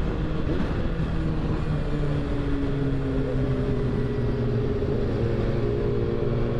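Motorcycle engine running at low, steady revs, its pitch easing down slightly over the first few seconds and then holding, over a constant low rumble of road and wind noise.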